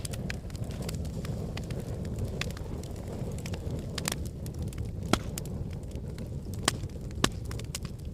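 Fire in a fireplace crackling, with a steady low rumble under scattered sharp pops. The loudest pops come about five seconds in and twice near the end.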